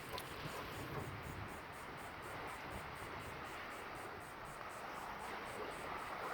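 Faint steady outdoor ambience of wind and surf, with an insect chirring high and fast in a rapid even pulse.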